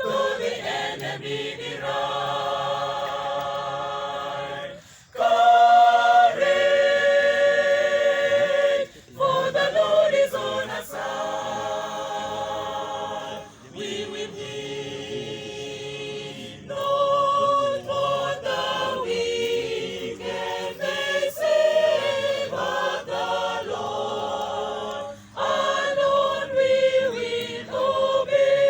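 A choir singing a hymn a cappella, several voices in harmony, in phrases with short breaths between them.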